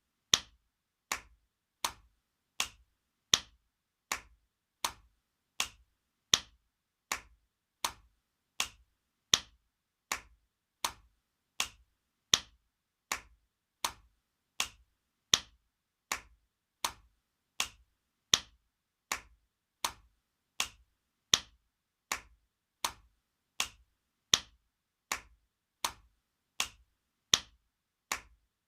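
Spanking sound effect: a sharp hand slap on skin, looped and repeated about once every three-quarters of a second, each slap dying away quickly, with every few slaps a little louder than the rest.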